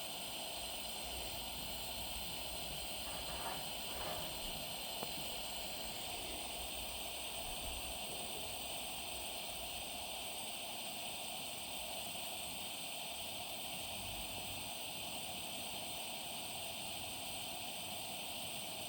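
Coleman 285 and 295 dual-fuel pressurised lanterns burning with a steady, gentle hiss. There are two faint short sounds about 3 to 4 seconds in.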